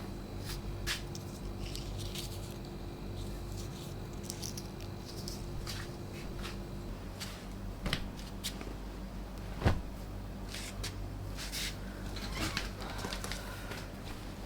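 Small indoor handling sounds: scattered light clicks and knocks, with one louder knock about ten seconds in, over a steady low hum.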